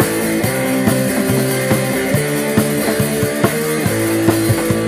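Live rock band playing an instrumental passage: guitar notes over a steady drum kit beat, with no singing.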